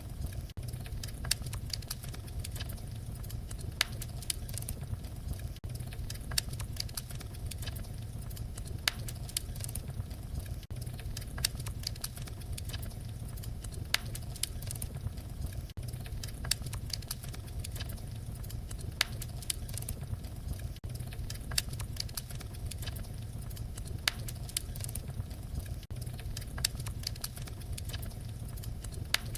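Fireplace fire crackling: irregular sharp crackles and pops, a louder pop every second or two, over a steady low rumble of the flames.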